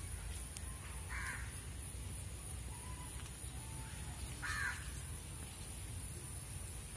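A bird calling twice, two short calls about three and a half seconds apart, over a steady high-pitched whine.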